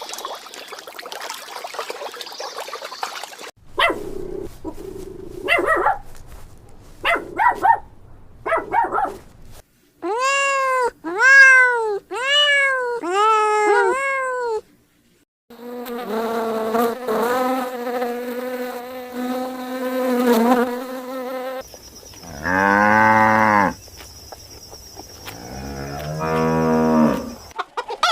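A run of different animal calls, cut one after another. First a few short calls, then five rising-and-falling calls in a row, then a steady buzzing drone, and near the end two long, low calls.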